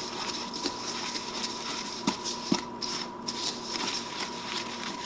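A spoon stirring packed snow and sweetened condensed milk in a bowl, with irregular small clicks and scrapes, two of them a little louder about two and two and a half seconds in.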